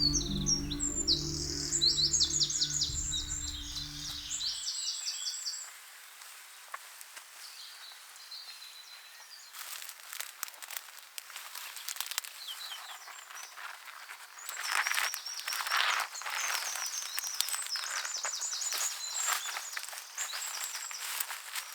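Small songbirds singing in quick high trills, over music that stops about four and a half seconds in. From about ten seconds on there is dry rustling and crackling as well, with the birds still singing.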